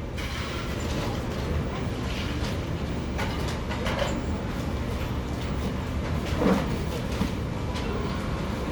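Café ambience: a steady low rumble of the room, with faint background voices and a few small clinks and knocks.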